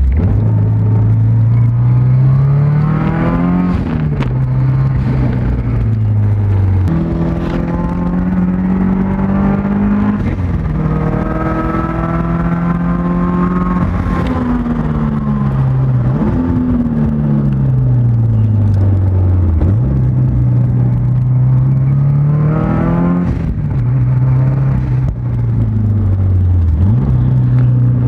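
Subaru Outback XT's built turbocharged flat-four engine, heard from inside the cabin while driven hard on track. It revs up, drops sharply in pitch at each gear change, and falls away over several seconds as the car slows for corners before climbing again.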